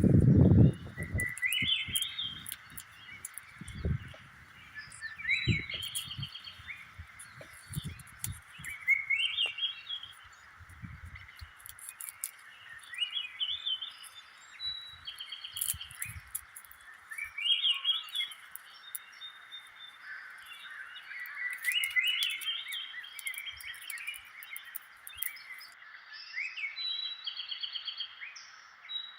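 Birds singing short, rising chirpy phrases every few seconds over a steady high hum of swamp background. Scattered dull thumps sound during the first half.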